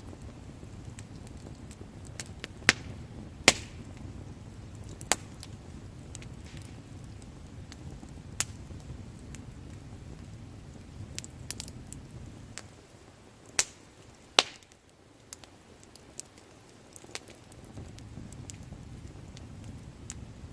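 Wood bonfire crackling: sharp, irregular pops and snaps from the burning logs over a low, steady rumble of the flames.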